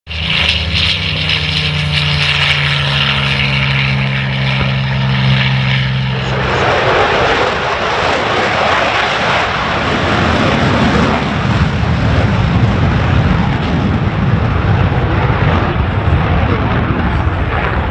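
Aircraft engine noise: a steady engine drone with a low hum for about six seconds, then a broad rushing roar that holds to the end.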